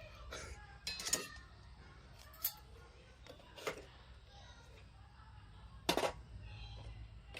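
Scattered light metallic clinks as a small wood-burning camp stove's parts are handled. About five sharp single clicks come a second or more apart, the loudest near the end.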